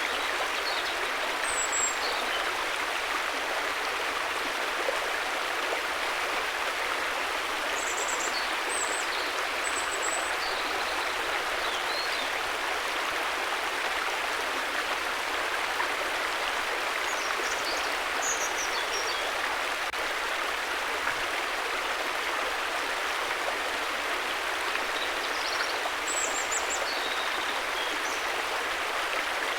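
River water flowing in a steady, even rush, with a few faint, short high chirps now and then.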